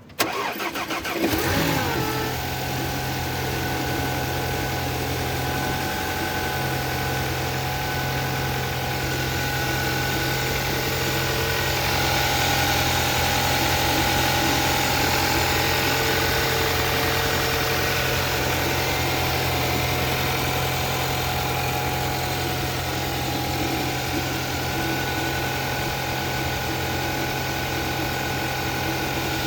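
2018 Audi Q5's 2.0-litre turbocharged four-cylinder engine cold-starting after sitting out at about 30 degrees: a brief crank and catch, a flare in revs that falls back within about two seconds, then a steady fast cold idle.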